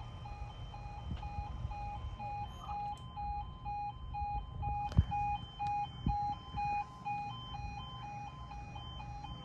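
Level crossing warning alarm sounding: two electronic tones alternating quickly and steadily, over a low rumble.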